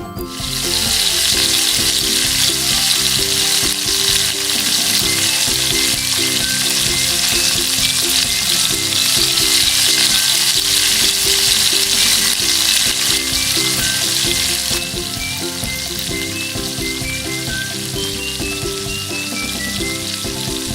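Chicken pieces deep-frying in hot oil in a miniature pan, a dense steady sizzle that starts suddenly and eases to a lower level about 15 seconds in.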